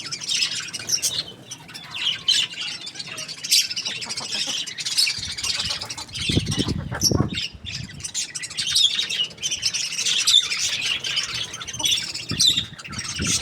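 Many birds chirping and squawking together, with a louder, lower call or squawk about six to seven seconds in.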